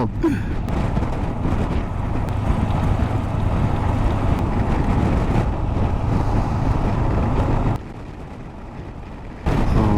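Wind rushing over the microphone and the Honda CB500X's parallel-twin engine running while the motorcycle is ridden. The noise drops sharply for a couple of seconds near the end, then comes back.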